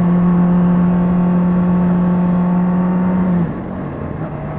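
Honda CBR600RR's inline-four engine running steadily under way. About three and a half seconds in, its pitch and loudness drop slightly, then hold steady at the lower note.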